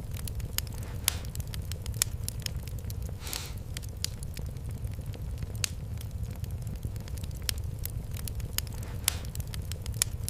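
Wood fire in a fireplace crackling: a steady low rumble of the flames with irregular sharp pops and snaps, and a brief hiss a few seconds in.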